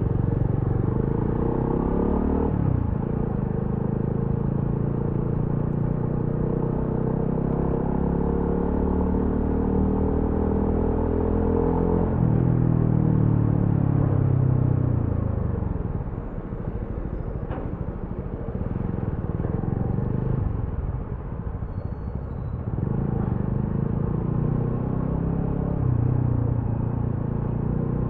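A TVS Apache RTR 200 4V's single-cylinder engine and exhaust on the move. The revs climb through the gears, with sudden pitch drops at upshifts about two and a half and twelve seconds in. The engine then eases off and falls for several seconds before revving up again near the end.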